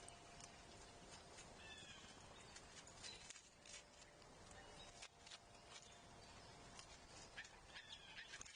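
Faint backyard ambience: small birds give a few short chirps, about two seconds in and again near the end, among scattered light clicks and taps.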